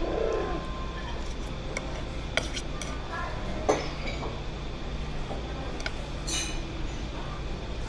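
Dishes and cutlery clinking now and then, a few sharp clinks over a steady low hum and faint background voices.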